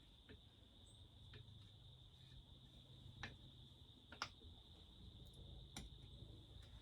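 Near silence with a few faint, separate clicks and taps of parts being handled during work on a chainsaw, over a steady faint hum.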